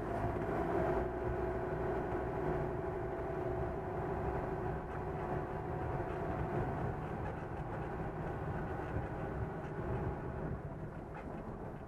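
Vehicle on the move, with a steady engine drone and road noise.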